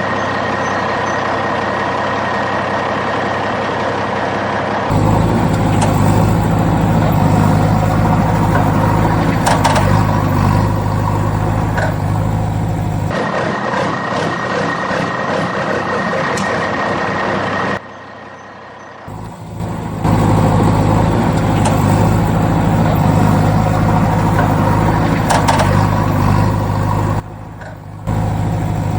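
Vehicle engine running steadily, with a low even hum and a thin steady whine above it. The sound changes abruptly several times, in step with edits.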